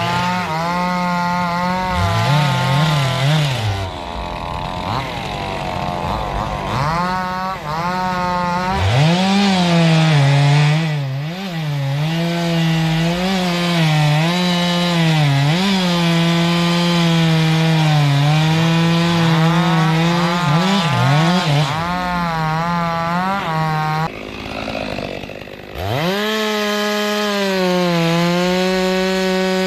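Stihl two-stroke chainsaw cutting wood on a durian tree, running at high revs, its pitch dipping and recovering over and over as the chain bites. About 24 seconds in it drops back for a moment, then revs up again and holds.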